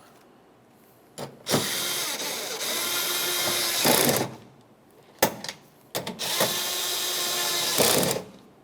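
Power tool spinning the two 11mm mounting nuts of a tailgate latch down onto their studs, running in two bursts of about two and a half seconds each, one per nut.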